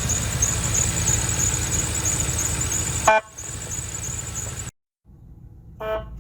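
Car on the road with steady engine and road noise, a short car-horn toot about three seconds in, then after an abrupt cut a second brief horn toot near the end.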